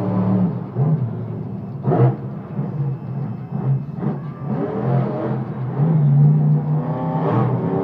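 Monster truck engines running loudly and revving, the pitch climbing and falling in several revs, with a sharp burst about two seconds in.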